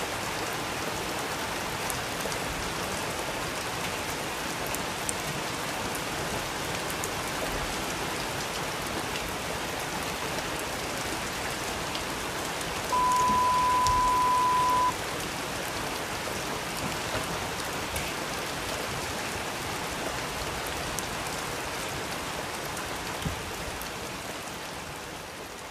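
Steady rain with scattered drop ticks, beginning to fade near the end. About halfway through, a single steady high beep lasts about two seconds and stands out loudly over the rain.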